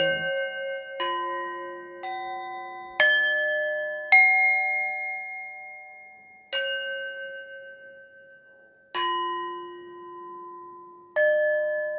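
Metal chime or bell tones struck one at a time, about eight strikes at uneven intervals, each ringing out and slowly fading.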